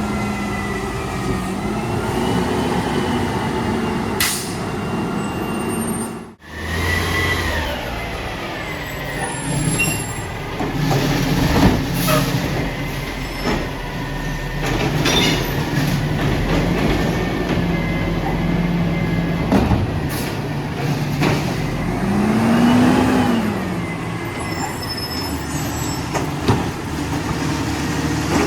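Mack LR garbage truck with a Labrie Automizer side-loader body at work: the engine runs steadily and revs up and back down once near the end, with sharp metal knocks from the automated arm and packer at intervals.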